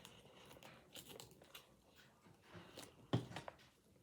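Close-up chewing and crunching of a mouthful of salad, with scattered small crackles and one louder sharp click about three seconds in.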